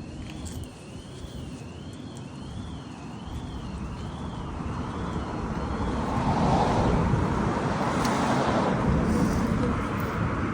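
A road vehicle approaching and passing, its noise swelling about halfway through. A faint high tone rises and falls about once a second through the first half.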